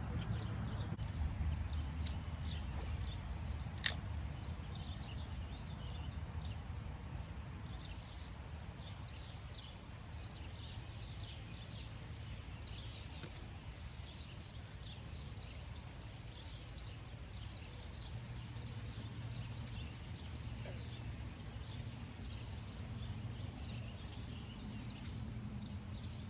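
Small birds chirping and calling over a steady low rumble, with one sharp click about four seconds in.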